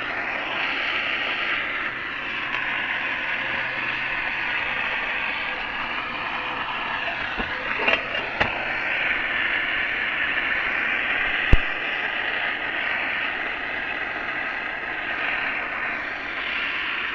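Gas torch flame burning steadily with a hiss, heating the wheel-bearing housing so it expands for the bearing's press fit. A few light clicks come at about seven to eight seconds, and a sharp tick comes about eleven seconds in.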